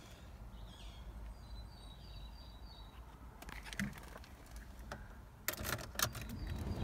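Faint birds chirping outside the car, heard from inside the cabin: a short run of high chirps in the first few seconds. A few scattered clicks follow, then a quick cluster of sharp clicks and rattles about five and a half seconds in, the loudest sound here.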